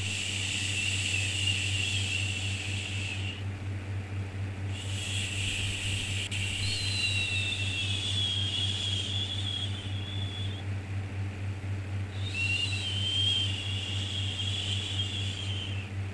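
Soothing 'shhh' shushing for a baby, repeated in long hissing strokes of three to six seconds with short pauses between, three in all, over a steady low hum.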